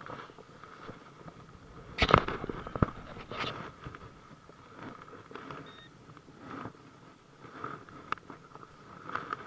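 Metal detector giving faint, wavering tones as its coil is swept over the ground, with a cluster of loud knocks and crackles about two seconds in from handling or ground contact.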